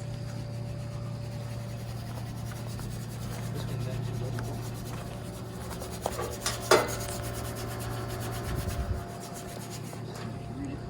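Steady low hum of a running outdoor air-conditioning unit. A few clicks and one sharp knock come about two-thirds of the way in, and the hum falls away near the end.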